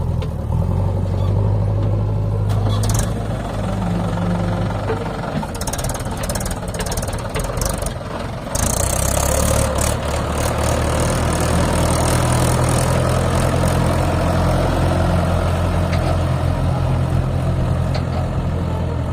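Heavy diesel engine running steadily. Its note weakens midway and picks up again, louder, about eight seconds in, with a brief hiss soon after.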